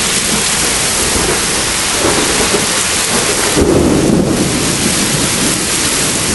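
Torrential rain and storm wind making a dense, steady hiss, with a rumble of thunder that starts sharply about three and a half seconds in and swells for under a second.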